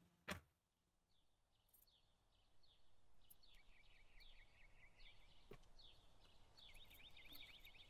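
Faint bird chirping: short calls repeated over and over, quickening into a rapid trill near the end. A single sharp click sounds just after the start.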